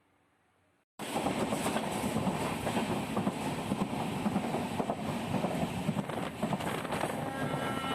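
Train running along the track: a steady, noisy rumble with many quick clacks from the wheels. It cuts in abruptly about a second in, after near silence.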